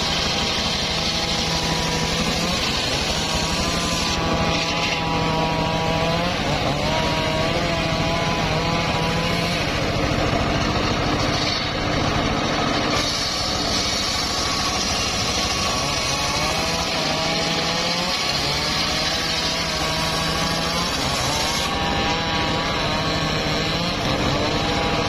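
Homemade circular sawmill running and ripping a log of old mahogany, its loud, steady machine noise wavering up and down in pitch again and again as the blade takes the cut.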